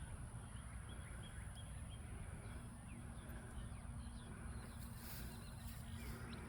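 Faint chirps of small birds, short and scattered, over a low steady rumble of outdoor background.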